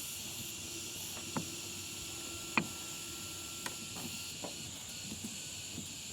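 Steady hiss of compressed air from an air gun blowing into a brake caliper's fluid port to push the piston out of its bore. A few light clicks and knocks sound over the hiss, the sharpest about two and a half seconds in.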